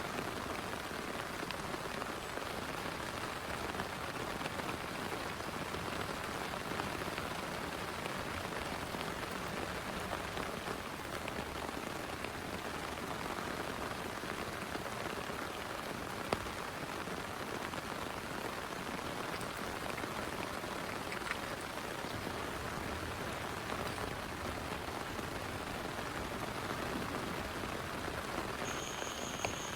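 Heavy rain falling steadily in a dense, even patter, with a few single sharper drop hits.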